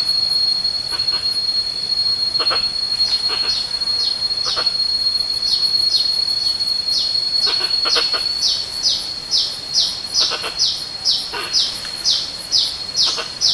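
Forest chorus: a steady high-pitched insect drone under a bird repeating short, downward-sliding whistled notes, which come more regularly, about two a second, in the second half.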